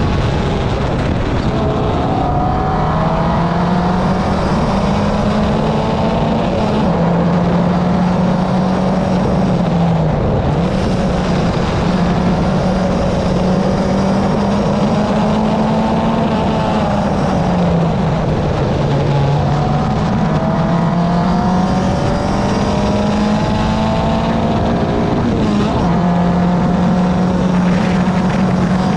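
Car engine running while the car is driven, with a steady low drone. The engine pitch rises under acceleration and falls back at gear changes several times.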